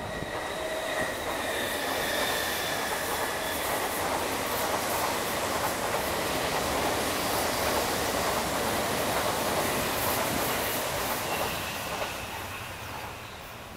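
MTR East Rail MLR electric multiple unit running past, a steady rush of steel wheels on rail that swells, holds and fades as the last car goes by. Faint high wheel squeal sounds in the first few seconds and again near the end.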